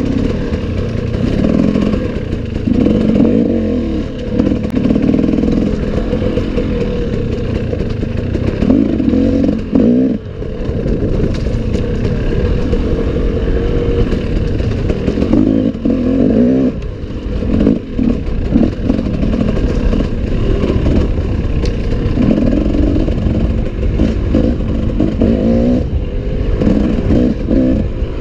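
Enduro dirt bike engine revving up and down again and again as it is ridden off-road, with clattering from the bike.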